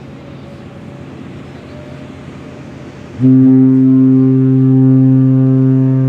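A cruise ship's horn starts about three seconds in: a loud, deep, steady blast with many overtones that carries on unbroken. Before it there is only a low, even rumble.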